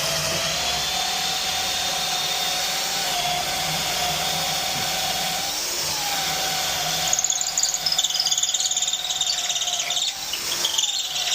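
Power drill boring into a wooden door with its bit. The motor runs at steady speed, slows briefly about six seconds in, then runs rougher and more unevenly from about seven seconds as the bit cuts.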